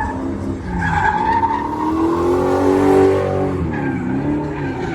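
Drift car's engine revving hard while its tyres squeal in a slide. The engine pitch climbs to a peak about three seconds in, dips, then rises again.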